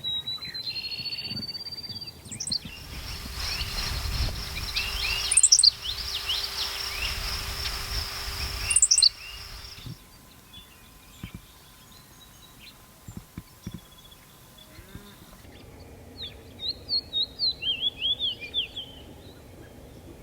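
Sparrows calling in a run of short field recordings cut one after another: thin high whistles and scattered chips, two sharp loud notes in the middle, and near the end a quick series of about a dozen loud chirps.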